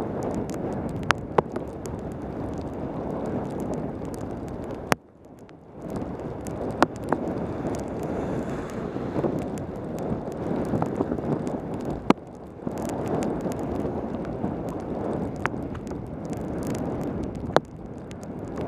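Wind rushing over a helmet camera's microphone during a fast mountain-bike descent in heavy rain, with scattered sharp clicks and knocks. The rush drops away suddenly about five seconds in and comes back a second later, with a shorter dip around twelve seconds.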